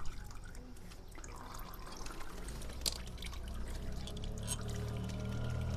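Engine oil dripping and trickling from a Yamaha FZ motorcycle into a drain pan, with small ticks. A low vehicle rumble builds in the background from about halfway through.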